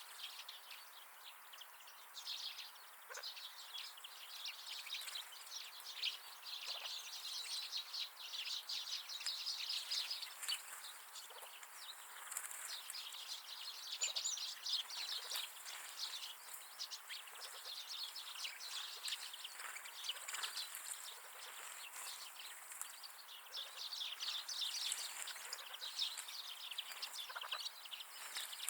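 Wild winter birds chirping and twittering in many short, overlapping calls, busiest through the middle.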